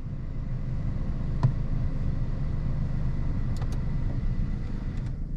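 Suzuki Alto 660cc three-cylinder engine idling steadily with the air conditioning switched on, its blower fan running, which the owner calls normal. A single light click about one and a half seconds in.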